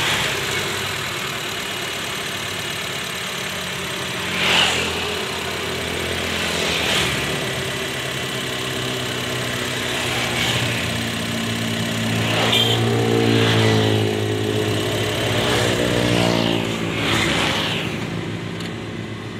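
Honda Mobilio's 1.5-litre i-VTEC four-cylinder engine running steadily, back in life after its fuel pump was replaced to cure hard starting. Its speed rises and falls a little past the middle, and a few brief louder sounds are laid over it, the loudest about four seconds in.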